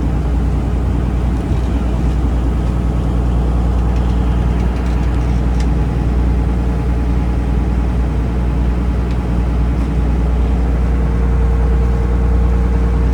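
Taxi boat's engine running steadily, a loud low drone, with a steady higher hum that grows stronger near the end.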